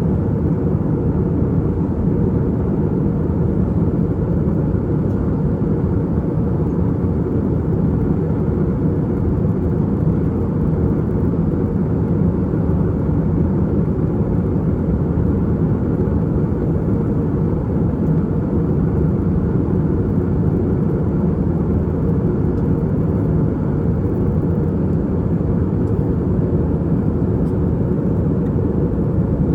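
Steady in-cabin drone of an Airbus A320-232 in flight: its IAE V2500 turbofan engines and the airflow over the fuselage make an even, low rumble with a softer hiss above it and no change throughout.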